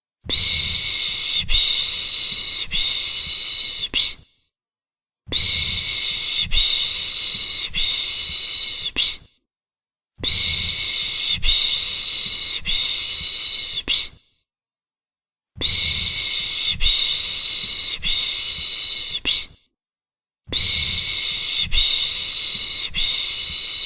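A person shushing a baby to calm it with the Turkish 'pış pış' shush: rhythmic 'shh-shh-shh' phrases of three long hushes, each phrase about four seconds long, with a pause of about a second between phrases, repeated five times.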